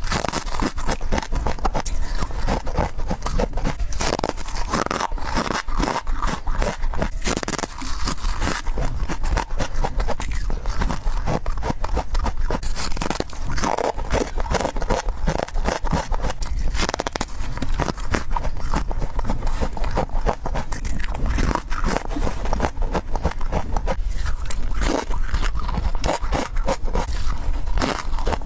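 Freezer frost being bitten and chewed in quick succession, a dense run of crisp crunches and scrapes close to the microphone.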